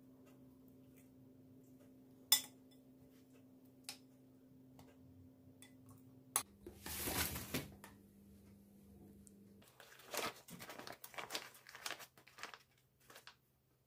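Small handling sounds over a faint steady hum: a sharp click, a rustling, crinkling burst lasting about a second and a half, then a quick run of small clicks and taps.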